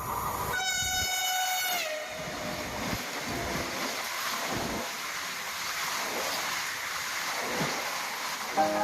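A passing train sounds its horn, a chord of several tones whose pitch drops as it goes by. Then comes the steady rush and rumble of its carriages going past close by.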